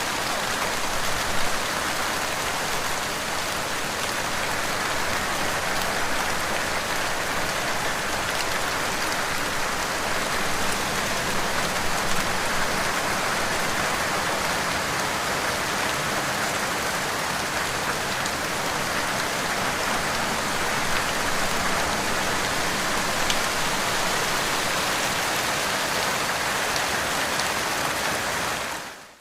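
Rain falling steadily: a dense, even hiss of drops with scattered single drop ticks. It fades out near the end.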